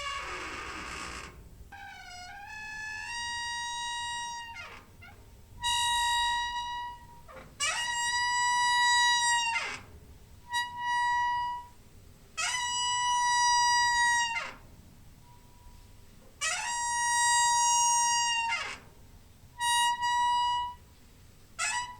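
Door hinge squeaking repeatedly. A rough creak slides downward at the start, followed by about seven long, high squeaks. Each squeak holds a steady pitch for one to two seconds, with a slide up at its start and down at its end.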